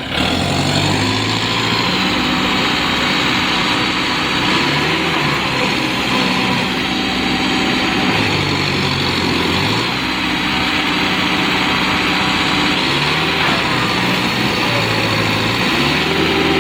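Tractor diesel engine running hard under load, its pitch dropping and rising again several times as the throttle is worked, typical of a tractor straining to drive out of deep mud.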